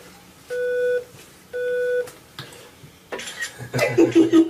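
Two half-second electronic beeps at a steady mid pitch, about a second apart, heard through a computer's speaker: the test tones played into a cochlear implant at its switch-on. About three seconds in, voices break in and become the loudest sound.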